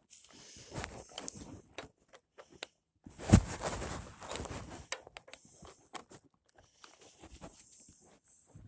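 Irregular crunching and scuffing, like steps and handling in snow, with one sharp knock a little over three seconds in.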